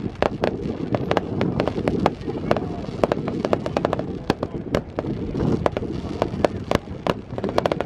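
Fireworks and firecrackers going off in a dense barrage: many sharp cracks and bangs, several a second at irregular intervals, over a continuous low rumble.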